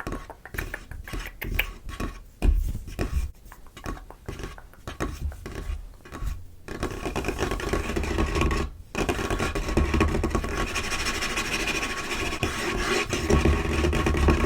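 Fingers and nails on a tabletop, first with quick, separate taps and scratches. From about halfway through they change to fast, continuous scratching and rubbing, broken once briefly.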